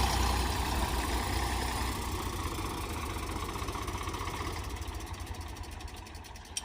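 Tractor's diesel engine running and growing steadily fainter.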